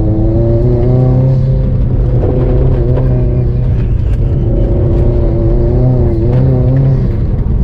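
Car engine pulling hard, heard from inside the cabin, its pitch rising and falling as the driver gets on and off the throttle, over steady road noise from the dirt surface.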